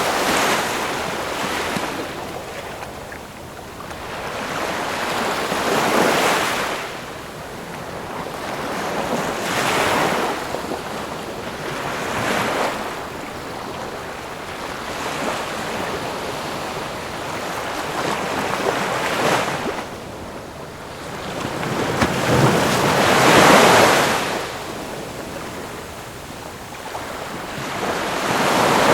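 Ocean waves breaking on a shore, with a constant wash of surf between them. Each wave swells and fades over a few seconds, about every four to six seconds, the loudest about two-thirds of the way through.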